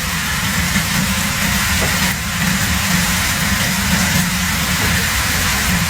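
Steady rumble and hiss of a high-flame wok burner running under a stir-fry.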